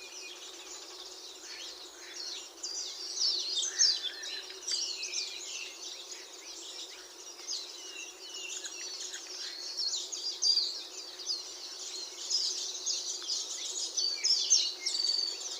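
A dense chorus of birds chirping and singing, many short overlapping calls and quick falling notes, over a steady low background hum.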